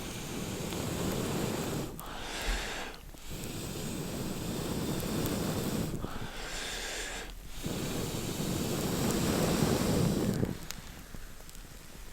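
A person blowing on campfire embers: three long blows, each followed by a short intake of breath.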